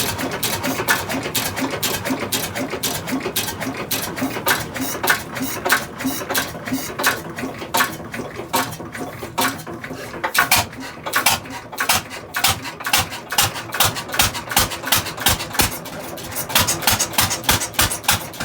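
Antique 4 hp Mogul side-shaft single-cylinder engine running on its first start in over 60 years, its exhaust giving a string of sharp pops, quick and close together at first, then more spaced and uneven at roughly two to three a second.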